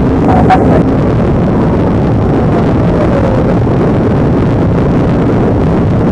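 Loud, steady engine, road and wind noise of a police car driving fast in a pursuit.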